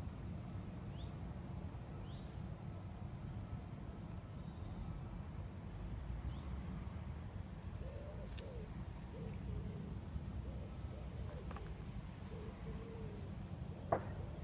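Wild birds singing: a high, fast trilling phrase repeated three times, short chirps, and short low calls from another bird in the second half, over a steady low rumble. A single sharp click near the end.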